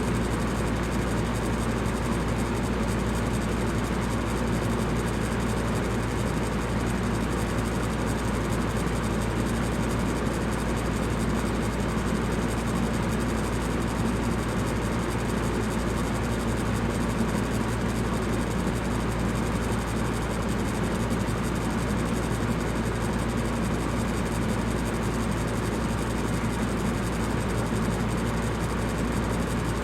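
Electric fan running steadily, a constant whooshing hum with most of its weight low down.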